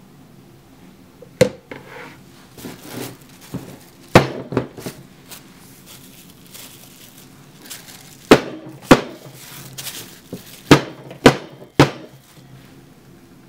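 Hard objects knocking together: a series of sharp taps and knocks, about seven loud ones spread irregularly, with softer rustling between them.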